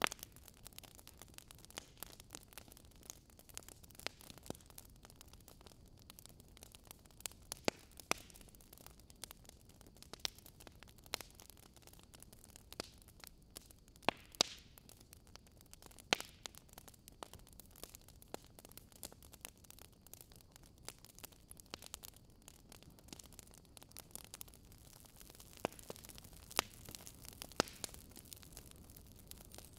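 Wood fire crackling in a fireplace: a steady soft hiss with irregular sharp pops and snaps, several of them loud.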